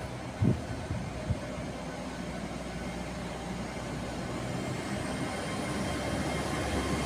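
Hitachi Class 802 bi-mode train pulling away from the platform and gathering speed, its running noise getting steadily louder. A high whine comes in about five seconds in and rises in pitch as it speeds up. Two brief low thumps come in the first second or so.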